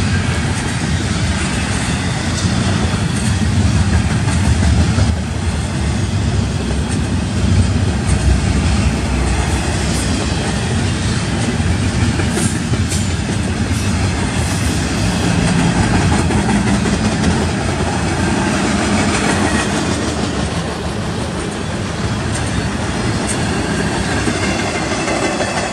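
Double-stack container well cars of a freight train rolling past, a steady rumble of steel wheels on rail with a few light clicks over the joints.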